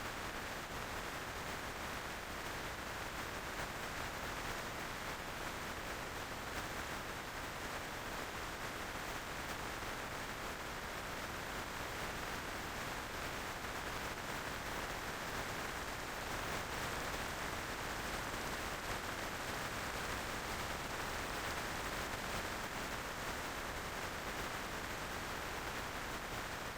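Steady rushing wind and road noise while riding a motorcycle at speed, with no engine note standing out.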